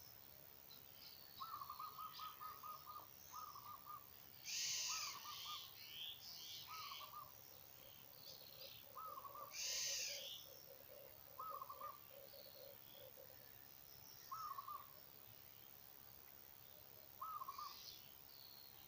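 Several wild birds calling: one repeats a short trilled note every second or two, another gives two louder harsh calls, and a run of lower, quick hooting notes comes midway.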